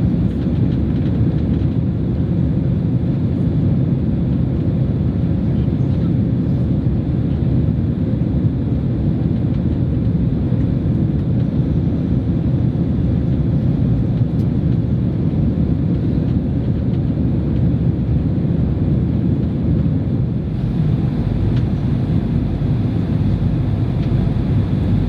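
Steady low rumble and rush of jet engines and airflow heard inside the cabin of a Boeing 767-300 airliner.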